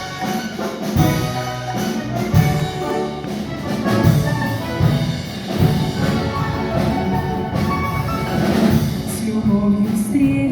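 Instrumental introduction to a song, played by an orchestra over a steady drum beat.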